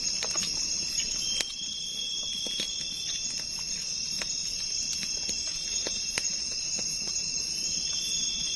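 Night insects such as crickets trilling steadily in a high-pitched chorus, with scattered sharp clicks.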